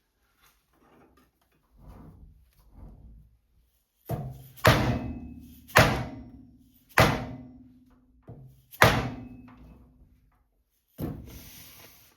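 Sharp metal knocks on a lathe faceplate setup while a part is bolted on: a few soft clunks, then five hard strikes about a second apart, each leaving a short low metallic ring.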